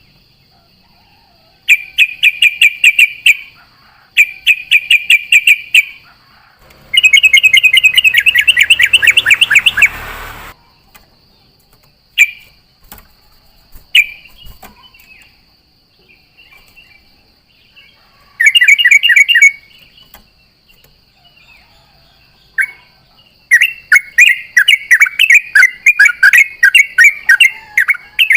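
Yellow-vented bulbul (trucukan) singing its rapid rolling song in repeated bursts of fast, bubbling notes, each a second or two long, with a longer run of phrases near the end. A faint steady high whine sits underneath.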